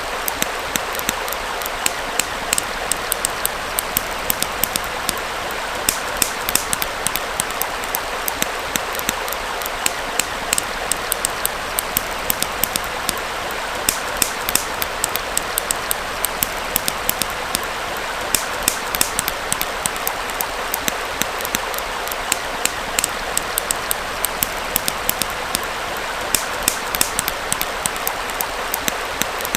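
Wood fire crackling with frequent, irregular sharp pops and snaps over the steady rush of a small flowing stream.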